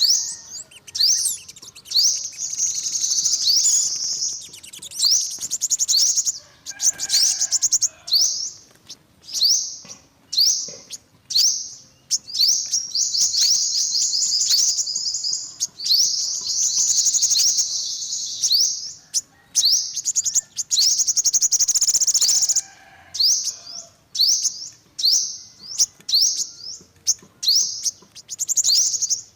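Yellow-bellied sunbird singing: high, thin chirps repeated in quick series, run together at times into fast trills several seconds long.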